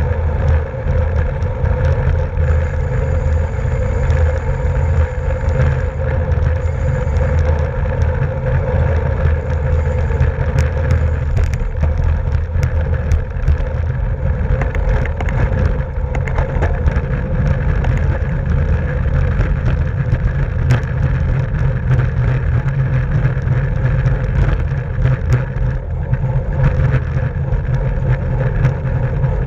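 Steady wind rush and road rumble on a racing bicycle's onboard camera microphone, with scattered small clicks and rattles.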